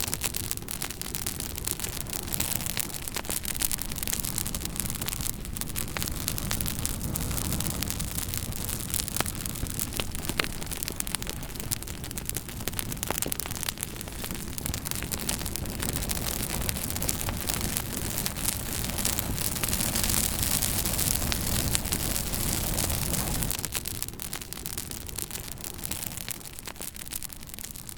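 Campfire burning: wood crackling with frequent sharp pops over a steady low rumble of the flames. The low rumble drops away about 23 seconds in, and the crackling fades near the end.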